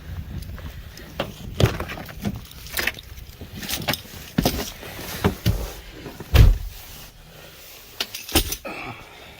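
Clicks and knocks from handling a minivan's door and keys: a string of sharp clicks, with one heavy thump about six seconds in.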